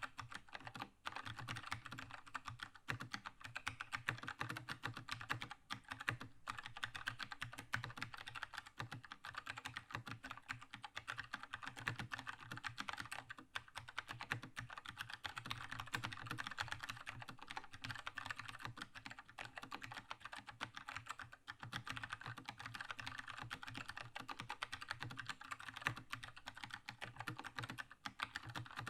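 Keychron K2 mechanical keyboard with red linear switches being typed on steadily, a fast stream of key clacks with a few brief pauses.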